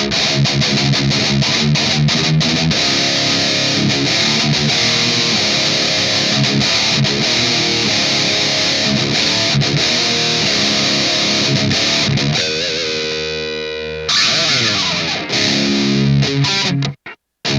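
Distorted electric guitar playing a chugging riff, then holding a chord that fades, followed by a falling slide in pitch. The sound cuts out abruptly twice near the end.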